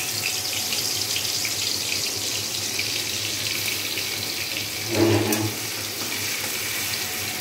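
Onion and garlic paste sizzling steadily in hot oil in a metal kadai as it is stirred, with a brief louder sound about five seconds in.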